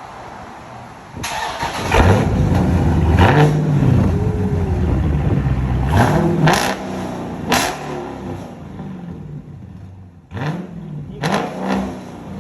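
Dodge Charger Scat Pack's 6.4-litre HEMI V8, straight-piped with its mufflers deleted, revved in a series of throttle blips. The first rev jumps in about a second in and is held longest, followed by several shorter blips.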